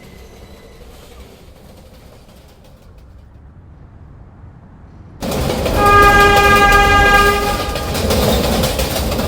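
New York City subway train running quietly at first. About five seconds in the rail noise jumps suddenly louder, and a train horn sounds one long steady blast lasting about three seconds.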